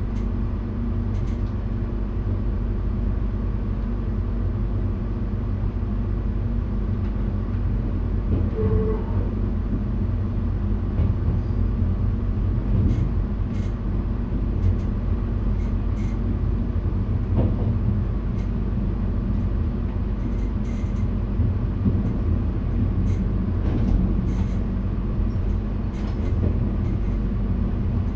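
Driver's cab of an NS VIRM double-deck electric train running along the line: a steady rumble with a low hum underneath. Scattered light clicks come through from about twelve seconds in, and a short tone sounds once about nine seconds in.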